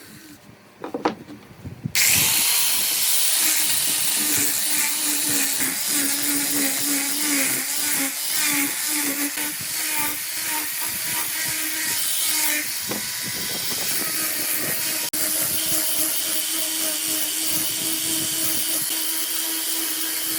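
A couple of knocks, then about two seconds in a power tool starts and runs steadily with a loud hiss over a wavering hum, cut off for an instant about three-quarters of the way through.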